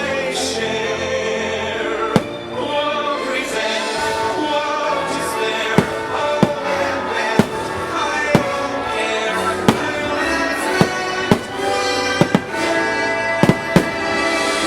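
A fireworks show soundtrack of orchestral music with singing and choir, with about ten sharp firework bangs cutting through it at irregular intervals of about a second.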